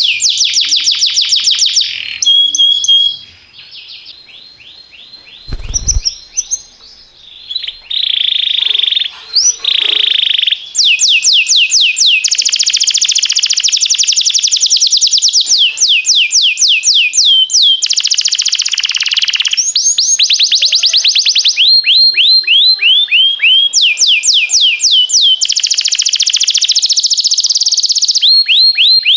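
Domestic canary singing long, fast trills of repeated down-sliding high notes. The song eases off and gets softer for a few seconds early on, with a brief low thump about six seconds in, then resumes in sustained rapid rolls.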